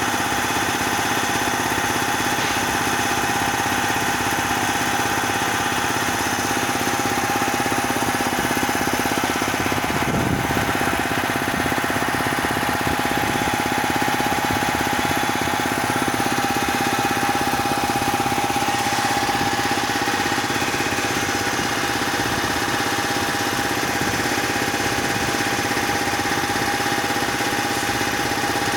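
Bauer 330-bar high-pressure compressor running steadily, with a constant whine over its mechanical clatter.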